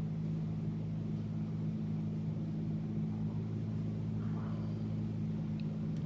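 Steady low mechanical hum, unchanging, with no speech over it.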